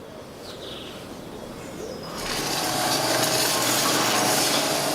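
Ice cream factory machinery starts up about two seconds in and runs as a steady, loud whirring noise with a faint hum under it.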